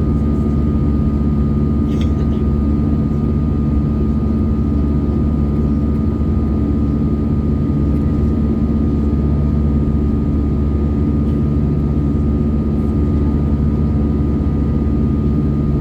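Steady cabin noise inside an Airbus A319 in flight: the drone of its CFM56 jet engines and the rush of air past the fuselage, a deep rumble with a thin steady tone over it.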